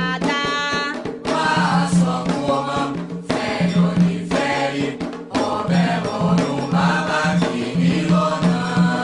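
A group of voices singing an Afro-Brazilian religious chant for the orixás, with percussion keeping a steady pulse underneath.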